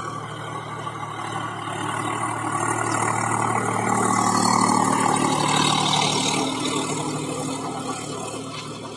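Swaraj tractor's diesel engine running, growing louder toward the middle and then fading again as it moves closer and away.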